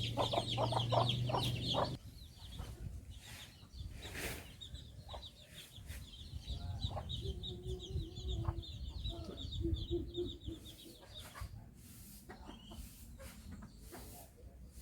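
Chickens clucking, with steady high-pitched chirping underneath. A louder low steady hum sounds for the first two seconds and cuts off abruptly.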